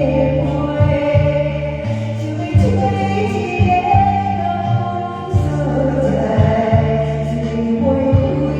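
A karaoke-style song with sung vocals over a steady, repeating bass beat.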